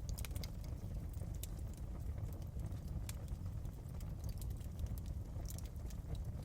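Wood fire crackling and popping in a fireplace: irregular sharp snaps over a steady low burning rumble.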